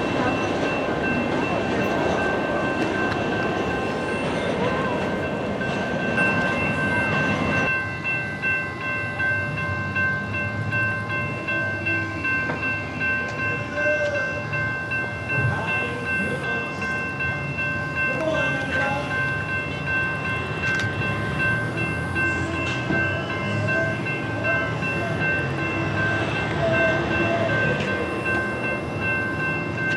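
A train passing, a continuous rumble with a steady high ringing tone over it. From about eight seconds in, the sound pulses regularly as the cars go by.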